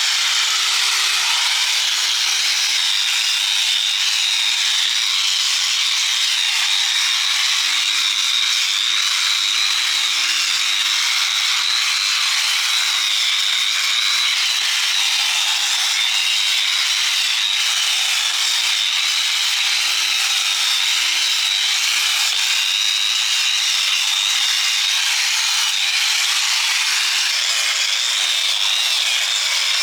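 A handheld power tool working metal without a break, a steady abrasive hiss with a slightly wavering high whine.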